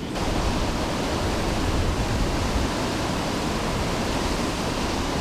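Rushing whitewater in a man-made whitewater rapids channel: a steady, even rush of fast-flowing water that cuts in abruptly.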